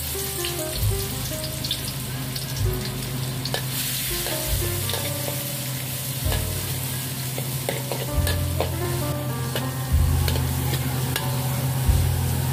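Chopped food sizzling in hot oil in a large aluminium wok. The sizzle is strongest for the first few seconds after the food goes in, then settles as a metal spatula stirs it, with light scrapes and taps against the wok. Soft background music plays underneath.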